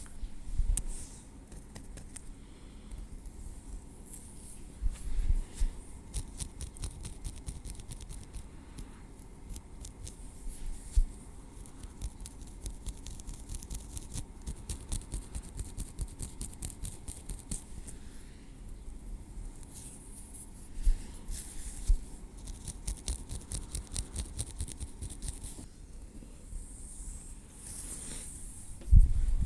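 Tweezers clicking and scratching in quick runs of light ticks, with a few soft low thumps along the way.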